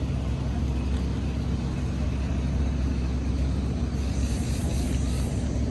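Tour boat's engine droning steadily, with a brief hiss about four seconds in.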